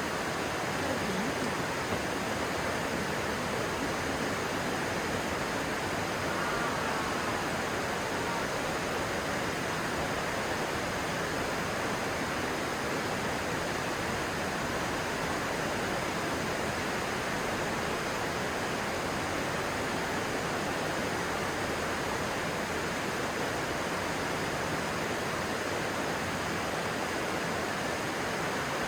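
Stream water rushing steadily, an even unbroken rush.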